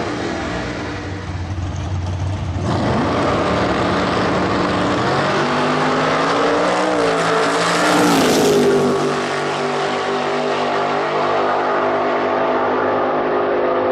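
V8 engine of a Ford Escort Top Sportsman drag race car running loud. A surge of noise comes about three seconds in, and the pitch climbs to a peak about eight seconds in before dropping back to a steady note.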